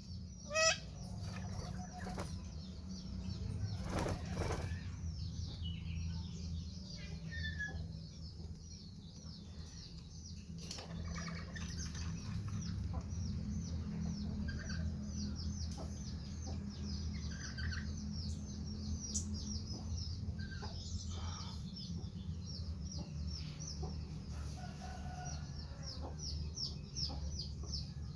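Birds calling: a sharp rising shriek about half a second in, then rapid high-pitched chirping throughout, with scattered calls over a steady low rumble.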